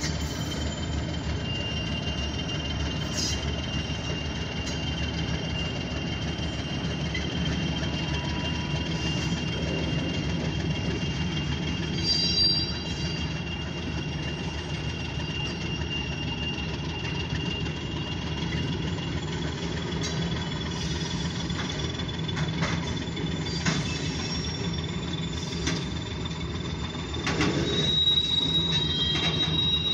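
OC&T freight train of grain hopper cars rolling past: a steady rumble of wheels on rail, with long thin high-pitched wheel squeal over it, rising slightly in pitch near the end.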